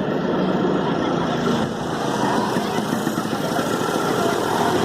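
Hyundai i20 engine idling steadily during an HHO carbon cleaning, with a dense, even hiss of workshop noise over it.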